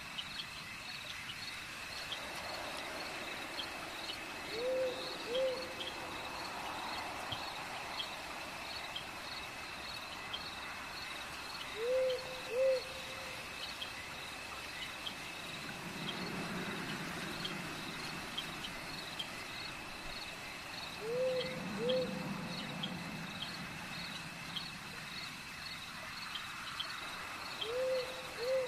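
Night ambience: an owl hooting in pairs of short notes, four times, over a steady high insect trill of crickets with a quicker chirp repeating about twice a second above it.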